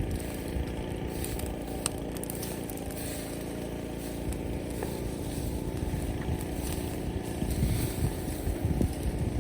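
Open bonfire of brushwood and bamboo burning with a steady low rumble and a few sharp crackles.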